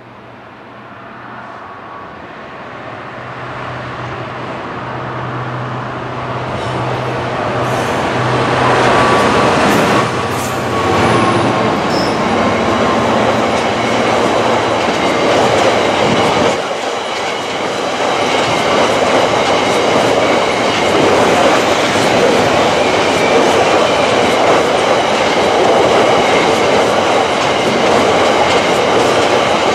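A diesel freight locomotive approaches and passes with a steady low engine note, the sound building over about the first ten seconds. It is followed by a long train of covered hopper wagons, their wheels rolling loudly and steadily over the rails.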